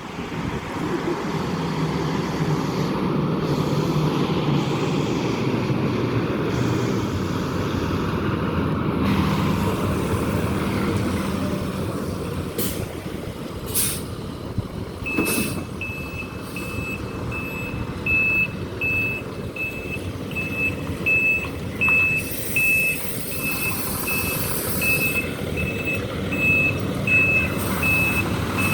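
Large truck's engine running steadily, with a few short air hisses about halfway through. From about halfway, its backup alarm sounds: a high beep about three times every two seconds while it reverses.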